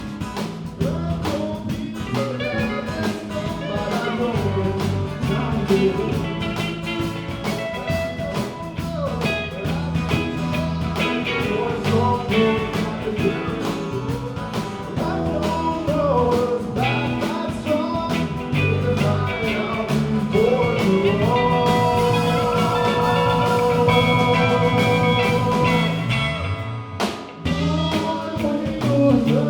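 Live rock band playing a blues-rock tune with drums, bass and guitar; long held guitar notes ring out in the second half, then the band drops out briefly and comes back in near the end.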